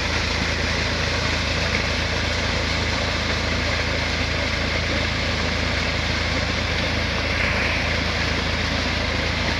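Tractor diesel engine running steadily as it drives a tubewell pump, with the steady rush of pumped water.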